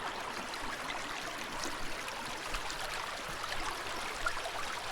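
Water trickling steadily along a rocky shoreline, with many faint scattered ticks.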